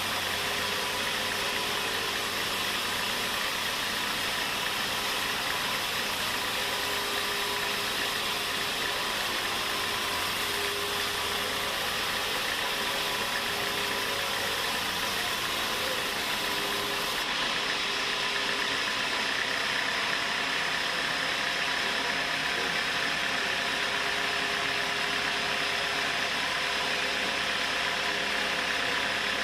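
Sawmill machinery running steadily, a continuous engine-like drone with hiss; the sound changes character about two-thirds of the way through.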